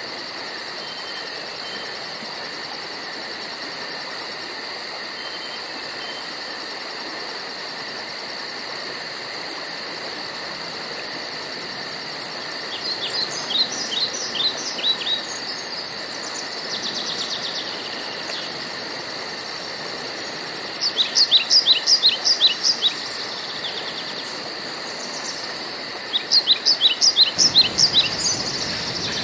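Woodland ambience: a steady high insect drone with fast pulsing, over which a bird sings three bursts of quick, repeated down-slurred notes, about 13 seconds in, about 21 seconds in, and near the end.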